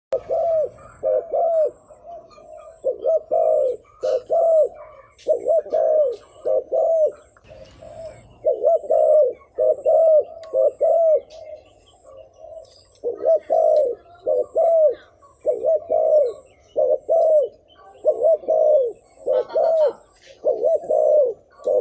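Spotted dove cooing: loud, repeated phrases of two or three arched coos with short pauses between them. This is the rapid 'thúc gù' coo of a decoy bird, used as a call to lure wild doves.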